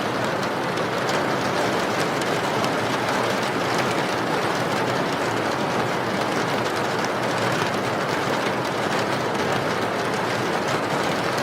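Steady heavy rain: a constant dense hiss of falling water with fine scattered drop ticks, unchanging throughout.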